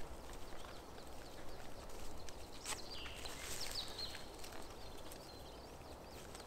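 Quiet woodland with a small bird giving several short high chirps around the middle, over faint rustling as plastic marker tape is handled.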